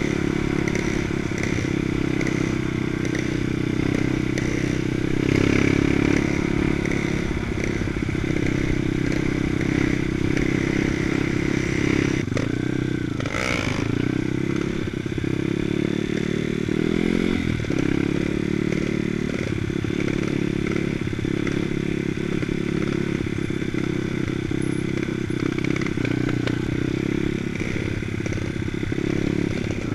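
Jotagas two-stroke trials motorcycle engine running, with its revs rising and falling as the bike is ridden.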